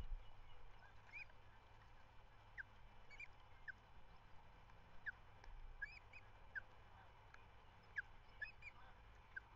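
Faint bird calls: short, high whistled notes repeated irregularly, about one or two a second, over a low steady background rumble.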